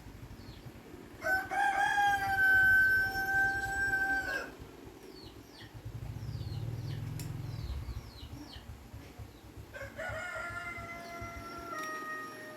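Rooster crowing twice: a long, steady call about a second in, and a second one near the end that drops in pitch as it trails off, with small birds chirping in between.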